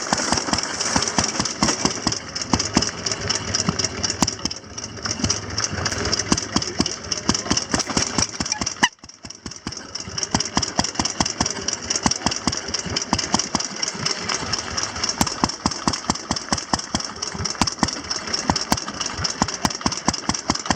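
Antique motorcycle engines running, a rapid even train of exhaust beats that drops away briefly about nine seconds in.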